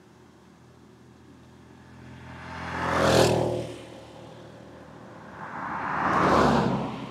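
Two vehicles passing by close on the road, one after the other, each rising and fading; the first has an engine note that drops in pitch as it goes by.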